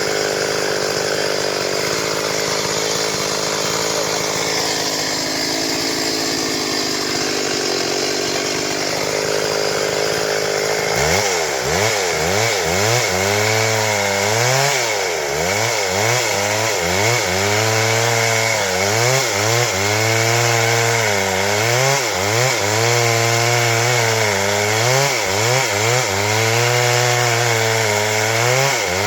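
Stihl MS 382 two-stroke chainsaw sawing timber into boards. It runs at a steady pitch for about the first ten seconds, then its engine note dips and recovers over and over as the chain bites into the wood.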